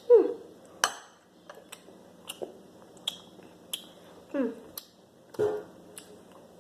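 A person eating ice cream with gummy candy: a series of sharp clicks and mouth smacks, with a few short falling "mm" sounds of tasting.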